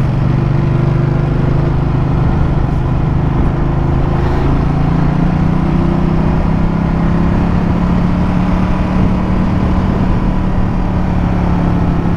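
Ducati Multistrada motorcycle engine running steadily on the road, over a steady rush of wind and road noise; the engine note dips slightly and rises again a few seconds in.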